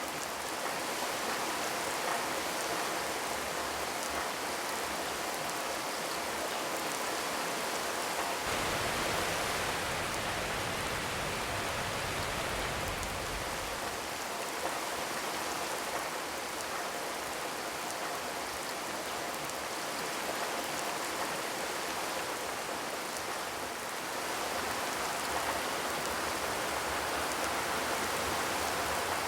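Steady rain without thunder, falling in an even hiss, with a deeper low rumble added for a few seconds in the first half.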